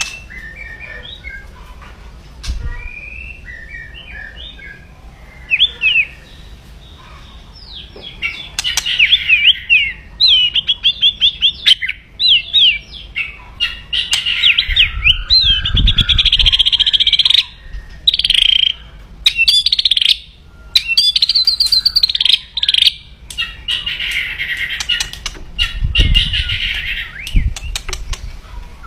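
White-rumped shama (murai batu) giving aggressive 'kretekan' calls: harsh rattles mixed with fast chirps and whistled sweeps. It starts with scattered quieter notes, then comes in loud, dense bursts with short pauses from about eight seconds in. This is the shama's agitated, fight-ready calling, used by keepers to provoke rival birds.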